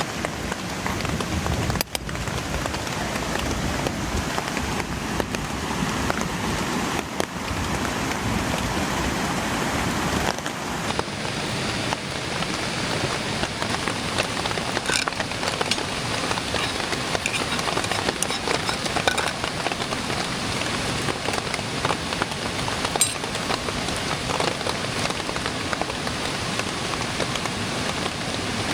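Light rain falling steadily, with a few scattered sharp ticks.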